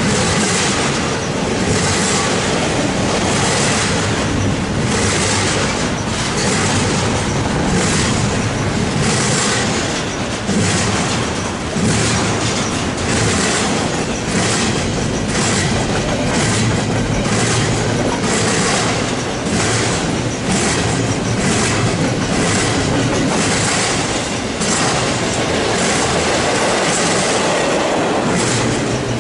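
A long freight train rolling past, its car wheels clicking over rail joints in a steady run of clacks about one to two a second over the continuous rumble of the cars.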